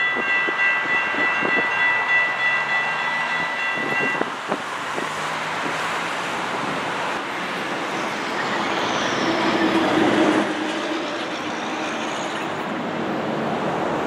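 Metrolink commuter train running over a grade crossing, wheels clicking on the rail joints under a steady high ringing tone that stops abruptly about four seconds in. A steady rush of passing traffic follows, swelling to its loudest near the middle.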